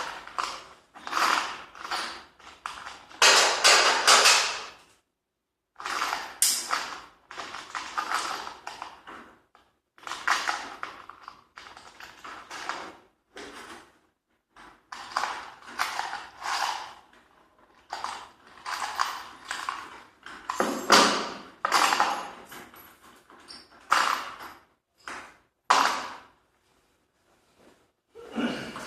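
Intermittent mechanical clattering and creaking in short, irregular bursts separated by brief pauses.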